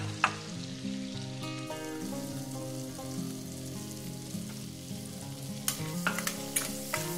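Potato pieces frying in hot mustard oil in a steel kadai, with a steady sizzle. A steel spatula clinks and scrapes against the pan several times near the end as the potatoes are stirred.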